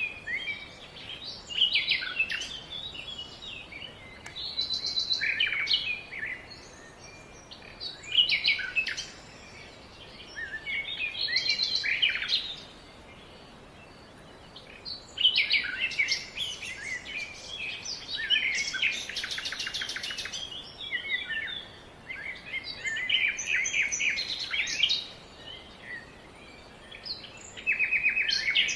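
Several songbirds singing and calling, with bursts of quick chirps and trills that come in clusters and pause briefly about halfway through; one bird gives a fast rattling trill a little past the middle.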